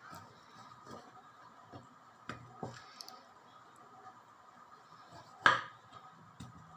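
Scattered light knocks and clicks of kitchen utensils and dishes being handled, with one sharp, louder knock about five and a half seconds in.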